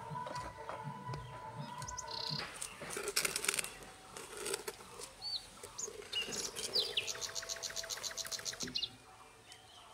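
Birds chirping: short high calls scattered throughout, and a fast trill of repeated notes, about eight a second, lasting about two seconds late on.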